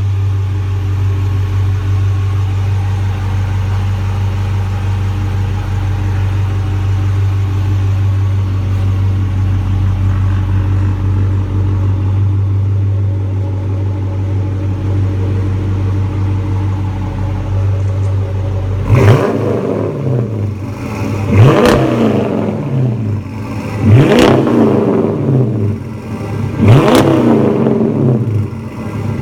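Car engine and exhaust idling steadily with a deep, low note, then revved in short blips about four times near the end, each rev rising in pitch and then falling back.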